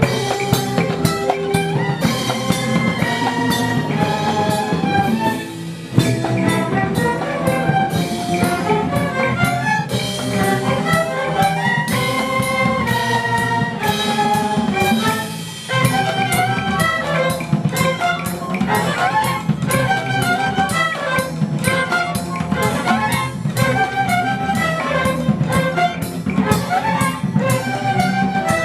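Instrumental music led by trumpets and other brass over a drum kit beat. It drops briefly about five seconds in and again about fifteen seconds in.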